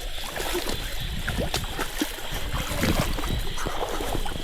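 Stream water rushing, with irregular splashes and low rumbling wind on the microphone.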